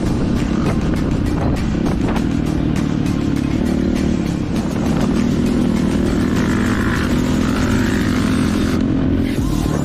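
Dirt bike engine running steadily, with music playing underneath.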